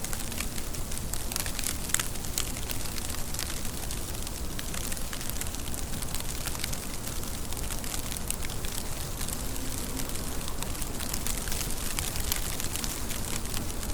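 Steady rain falling, many separate drops ticking sharply over an even hiss.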